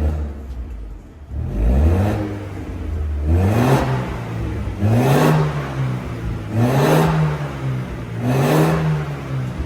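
Ford Focus 1.6 four-cylinder engine revving through an MS-R valved aftermarket exhaust. The revs climb about a second and a half in, then come four quick throttle blips about a second and a half apart, each rising and falling in pitch.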